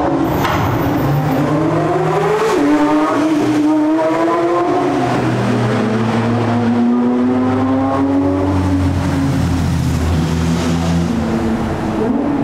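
Ferrari SF90 Stradale's straight-piped twin-turbo V8 revving: its pitch climbs, drops about two and a half seconds in, climbs again, then holds fairly steady.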